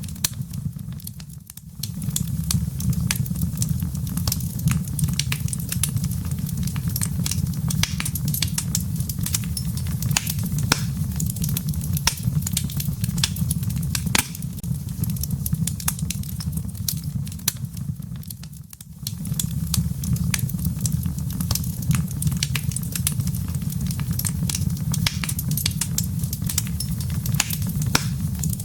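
Wood fire crackling in a fireplace: dense sharp pops and snaps of the burning wood and embers over a steady low rumble of the flames. The level dips briefly twice.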